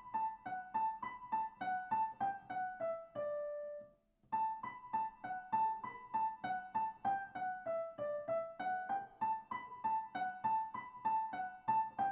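Piano playing a simple children's melody in short, even notes, about three a second, with lower notes beneath. The phrase ends on a held note, there is a brief pause about four seconds in, and then the melody starts again.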